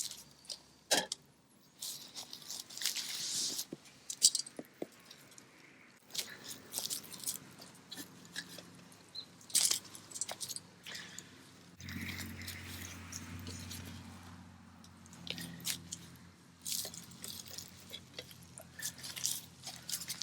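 Irregular sharp clicks and light metallic clinks, typical of handling utensils and titanium cookware over a small wood fire. A low steady rumble comes in about twelve seconds in.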